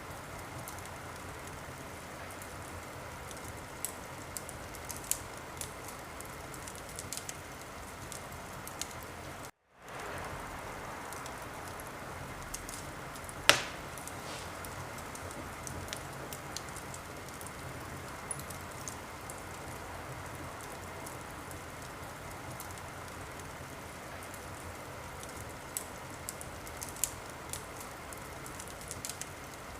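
Wood fire crackling in a fireplace: a steady hiss with scattered sharp pops, one much louder about 13 seconds in. The sound cuts out for a split second just before ten seconds in.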